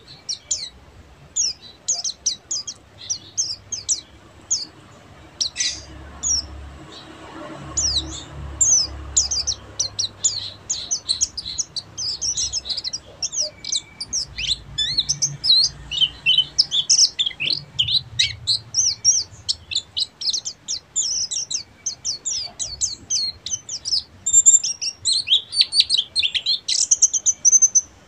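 White-eye (pleci) singing a fast, high, twittering song, the 'ngeriwik' style. Scattered chirps at first run together after about eight seconds into an almost unbroken stream of quick high notes.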